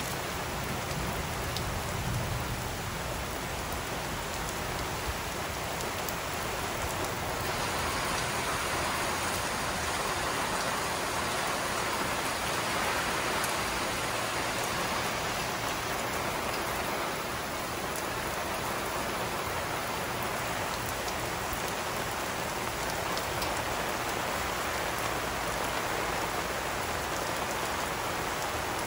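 Steady rain pouring onto grass, palms and leaves, an even hiss that grows a little fuller about seven seconds in.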